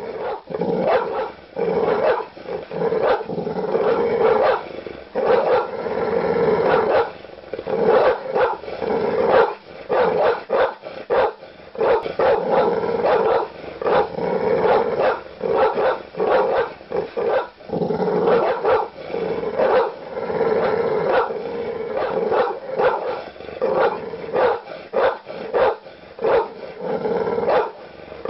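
Large dogs barking aggressively: deep barks in rapid, overlapping runs, several a second, with no real pause.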